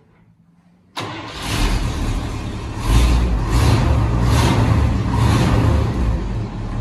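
After about a second of near silence, the engine of a 1963 International Loadstar truck comes in abruptly, running just after a cold start. About three seconds in it gets louder and surges in repeated pulses, roughly one a second.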